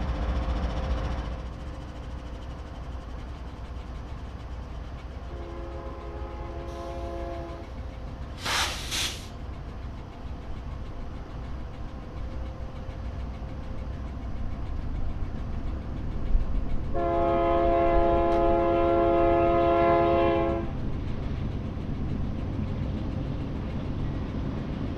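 BNSF freight locomotive horn sounding a short blast about five seconds in and a longer, louder blast from about seventeen to twenty seconds, over the steady rumble of a train on the rails. A brief loud hiss comes just after the first blast.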